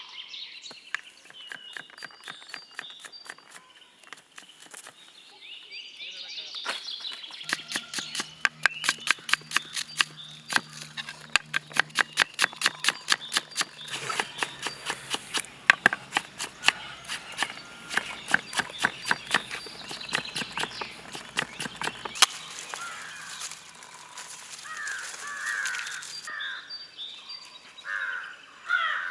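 Knife chopping on a cutting board in quick, regular strokes, about two or three a second, cutting an ingredient into small button-sized pieces rather than mincing it. Birds chirp faintly under the chopping.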